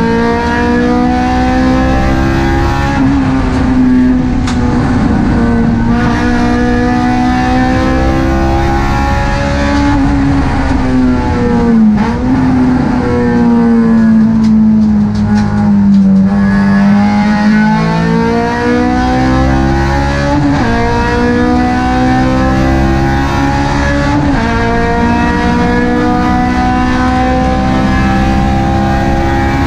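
Honda Civic Type R FD2's K20A four-cylinder VTEC engine pulling hard up through the revs, with sudden drops in pitch at upshifts about three seconds in and twice more near the end. In the middle the revs fall as the car slows and downshifts, with short throttle blips, before climbing again.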